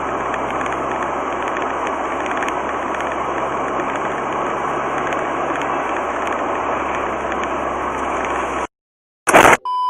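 Steady engine and road noise of a car in snowy road driving. Near the end it cuts off abruptly, followed by a short loud burst and a brief high beep.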